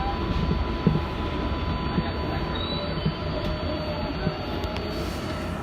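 R188 subway car of the 7 train running on the rails: a steady low rumble with faint wheel squeal and a few knocks from the wheels over rail joints.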